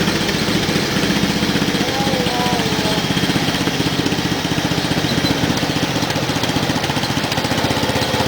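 Small single-cylinder lawn tractor engine running steadily under way, with a rapid, even firing beat.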